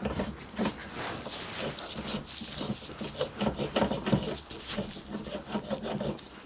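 Brass valve being lapped into its seat with grinding paste: a run of irregular gritty rubbing and scraping strokes, metal on metal, as the seat is ground to full contact.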